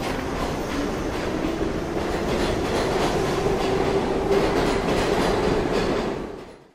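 Train running along rails, a steady rumble with wheels clicking over the rail joints and a faint steady whine; it fades out near the end.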